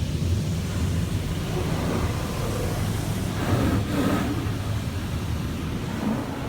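Automatic car wash running, heard from inside the car's cabin: a steady low rumble and hiss of the washing equipment working over the car, swelling briefly about three and a half seconds in.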